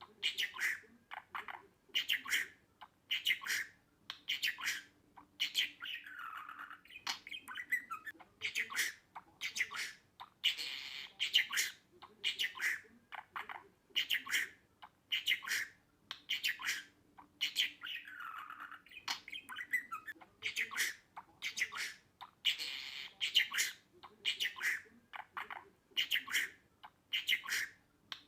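Budgerigar chirping and chattering: a continuous run of quick, high calls, several a second.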